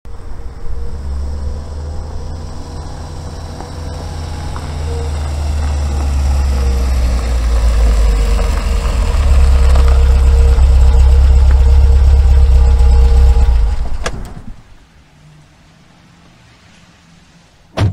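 A car engine running as the car drives slowly closer, growing louder until it cuts off about fourteen seconds in. After that, a faint low hum, then a short sharp knock at the very end.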